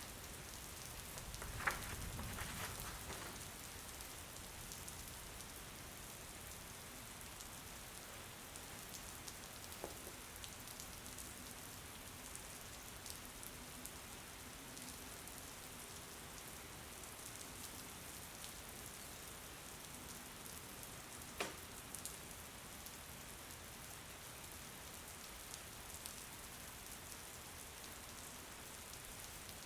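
Steady rain falling, a faint continuous hiss. A few isolated sharp clicks sound over it, one near the start and a pair about two-thirds of the way through.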